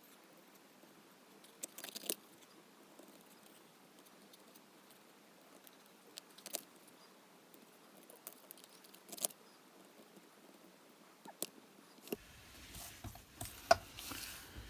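Scissors snipping around a cut-out card shape: a few single snips several seconds apart. Near the end, rustling of card and paper being handled.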